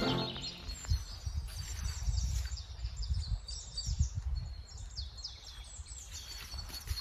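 Several birds singing and chirping in a forest, over an uneven low rumble of wind on the microphone.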